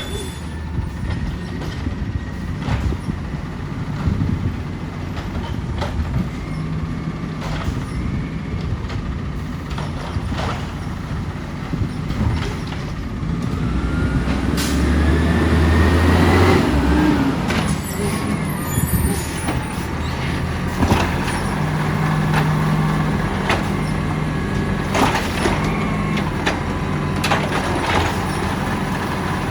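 Side-loader garbage truck at work: its diesel engine runs and swells up in pitch and loudness around the middle, with several sharp clanks and air-brake hisses.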